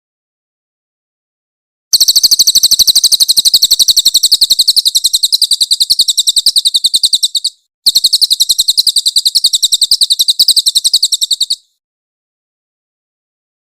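Crested jay (cililin) giving its loud, harsh rattling call: two long runs of rapid, evenly spaced shrill notes, the first about five seconds, the second about four, with a brief break between.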